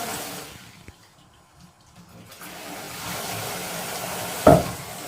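Running water from a shower or tap that drops away about half a second in, is almost gone for about two seconds, then comes back. About four and a half seconds in there is one short, loud sound.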